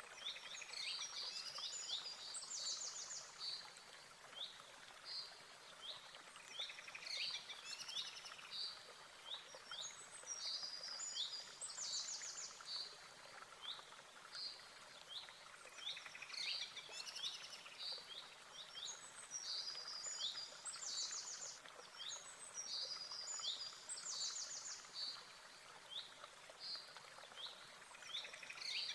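Birds chirping and trilling again and again over a faint steady hiss.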